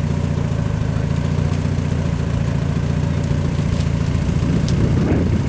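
A 4x4 truck's engine idling steadily.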